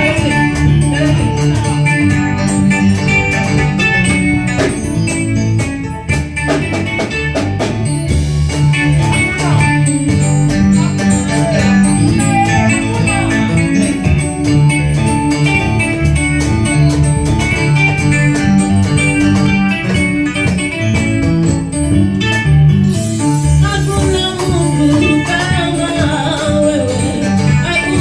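Live church worship band playing an instrumental passage: electronic keyboard with guitar, bass and a steady drum beat.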